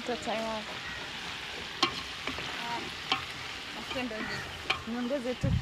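Food frying in a cooking pot: a steady sizzle, with a few sharp clicks as it is stirred.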